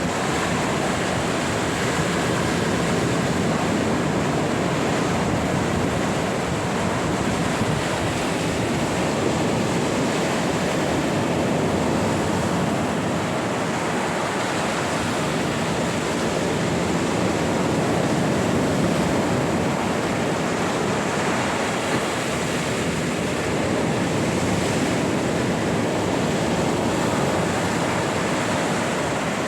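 Black Sea surf washing onto the shore, a steady rushing noise that barely rises or falls.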